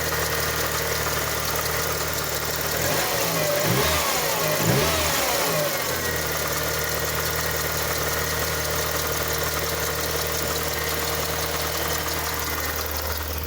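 1988 Ford Thunderbird Turbo Coupe's turbocharged 2.3-litre four-cylinder idling shortly after a cold start. It is revved up and back down about three to six seconds in, then settles back to a steady idle.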